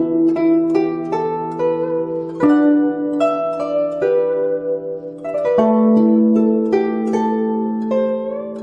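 Chinese zither playing a slow melody: plucked notes ring out over long-sustained low notes. Near the end, one note is bent upward in pitch.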